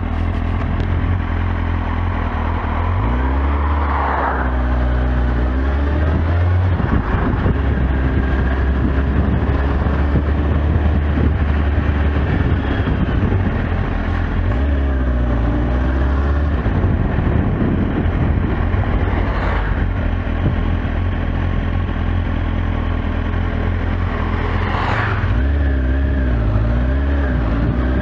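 Kawasaki Z750S inline-four engine running at low road speed, heard from the rider's seat; its pitch rises and falls a few times as the throttle is opened and eased off, about four seconds in, midway and near the end.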